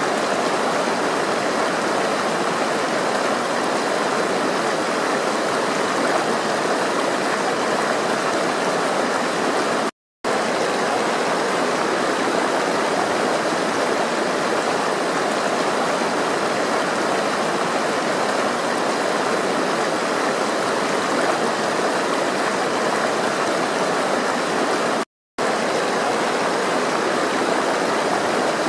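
Steady rushing of flowing water, cut to silence twice for an instant.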